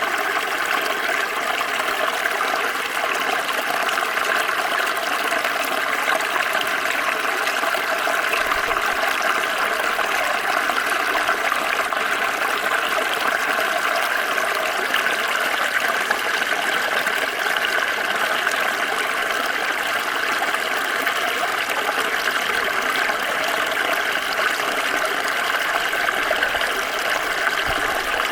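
Small stream flowing and burbling steadily over stones, a constant rush of water that stays the same throughout.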